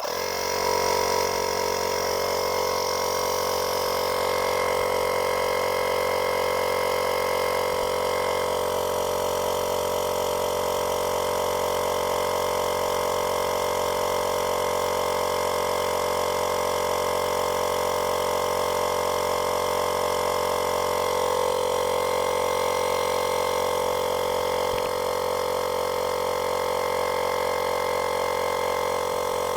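Xiaomi 70mai Air Compressor Lite (Midrive TP03), a 12-volt car tyre inflator, switching on abruptly and running steadily.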